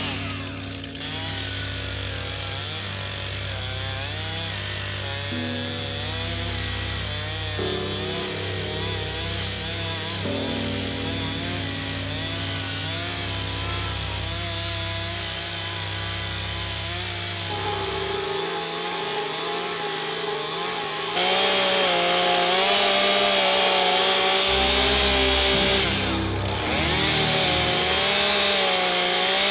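Two-stroke chainsaw ripping lengthwise along a pine log in a freehand milling cut, its engine pitch wavering under load. It gets louder about two-thirds of the way in and eases off briefly near the end.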